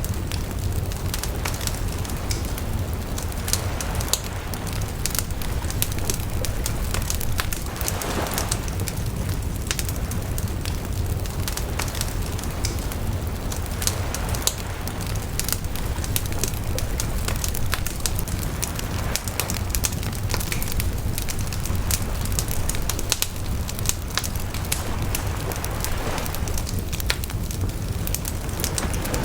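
Wood bonfire crackling with many sharp pops over a steady low rumble of flame, and a few brief swells of hiss.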